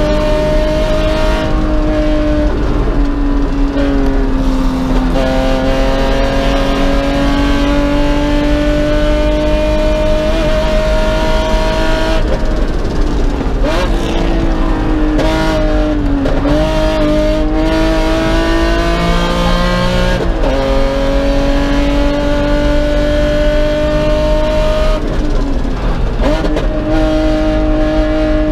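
Race car engine heard from inside the cockpit, pulling hard on track: its pitch climbs slowly through long stretches, then drops sharply several times as the car slows for corners and changes gear, before climbing again. Road and wind noise run underneath.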